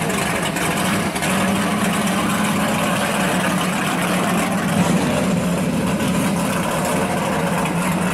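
A 1966 Chevelle SS drag car's V8 engine idling as the car rolls slowly past, running steadily and low-pitched with no revving.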